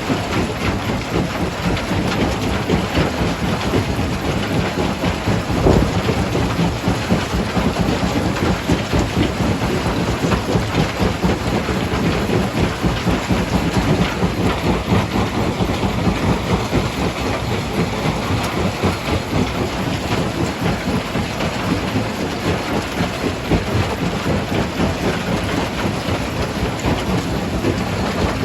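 Stone crusher crushing rock: a loud, steady din of stones grinding and rattling through the machine, with one sharp knock about six seconds in.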